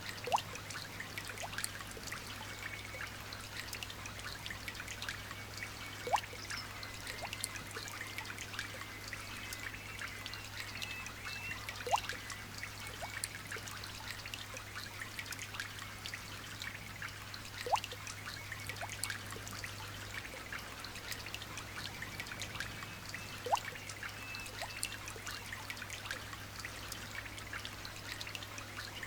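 Light rain dripping and trickling, with a louder drop plopping into water about every six seconds, each with a short rising pitch. Faint birds chirp in the background over a low steady hum.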